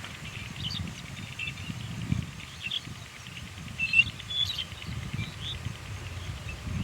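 Birds calling in short, high chirps, scattered irregularly, over a low, uneven rumble.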